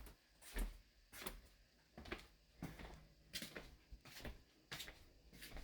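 A series of faint, irregular knocks or taps, about seven in all, each short and sharp.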